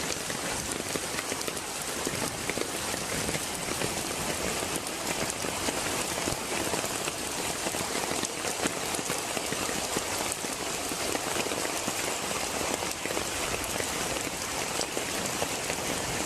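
Heavy rain pouring down: a steady, dense hiss of drops striking surfaces.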